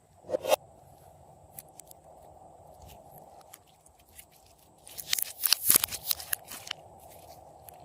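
Slime being squished and kneaded by hand, with sticky crackling and popping clicks: a short flurry just after the start and a denser run of crackles about five seconds in.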